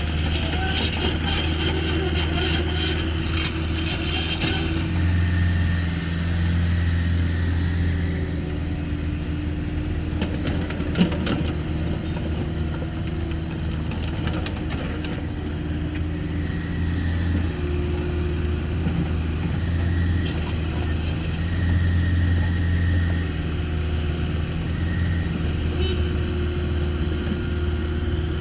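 Cat 305.5E2 mini excavator's diesel engine running under working load, its note swelling and easing as the hydraulics work, with a whine from the hydraulics that comes and goes. A dense rattle of soil and stones runs through the first few seconds, and a single sharp knock comes about 11 seconds in.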